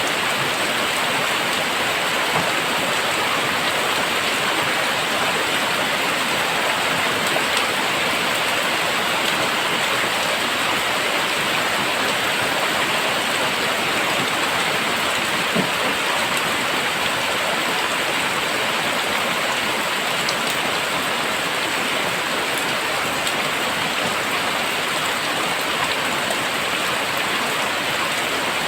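Very heavy rain falling steadily, a dense, even hiss with occasional faint drop ticks.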